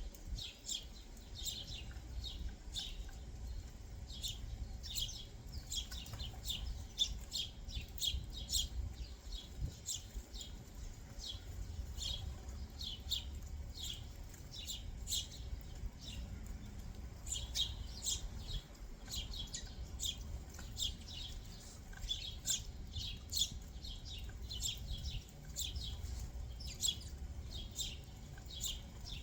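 Backyard songbirds chirping: a steady run of short, high chirps, several a second, over a low background rumble.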